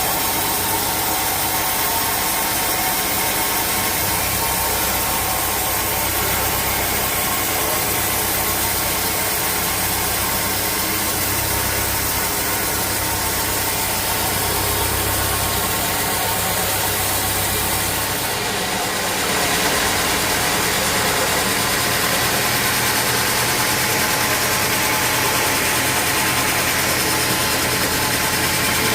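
Sawmill machinery running steadily, an engine-like drone mixed with hiss. About nineteen seconds in it dips briefly, then carries on a little louder.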